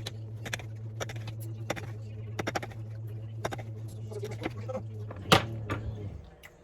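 Irregular clicks and taps of a knife on a cutting board as steak is sliced, the loudest a little after five seconds, over a steady low hum that stops about six seconds in.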